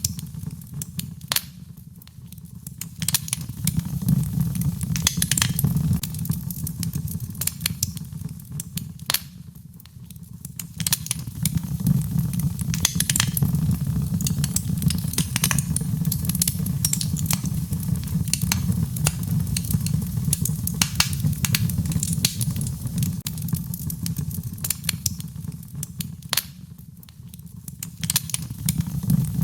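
Wood fire in a fireplace crackling and popping, with sharp snaps over a steady low rumble of the flames. The crackling thins out briefly a few times.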